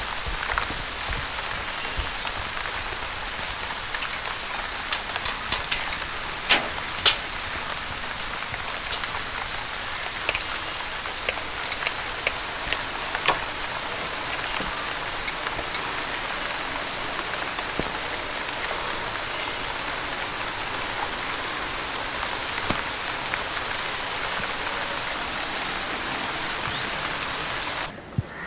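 Steady rain falling, an even hiss with scattered sharp ticks of individual drops striking close by, most of them in the first half. It cuts off suddenly just before the end.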